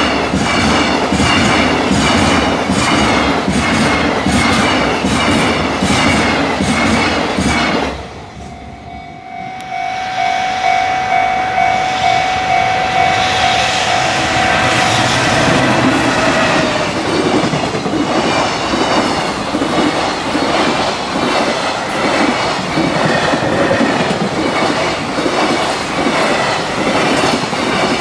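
Two long container freight trains passing at speed, their wheels clacking rhythmically over the rail joints. About eight seconds in, the clatter cuts to a short lull with a steady high tone while the second train approaches, and then the second train's wheel clatter builds and runs on.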